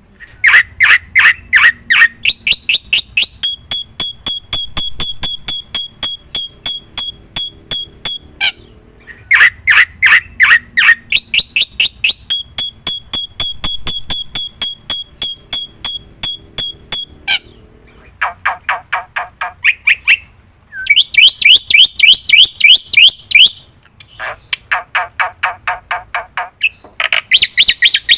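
Black-winged myna (jalak putih) singing long runs of rapid, sharp, repeated notes, several a second, with short breaks between the runs.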